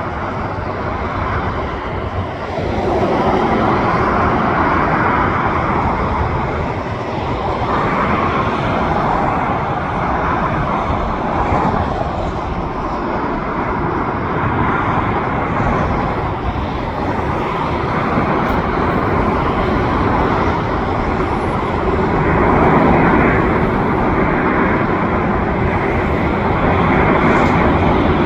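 Steady road traffic noise, rising and falling as vehicles pass. A landing jet airliner's engines grow louder near the end.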